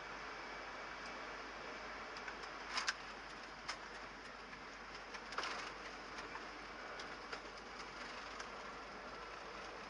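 Steady rushing noise inside an airliner cockpit during the landing, with a few short sharp clicks and knocks, the loudest about three seconds and five and a half seconds in.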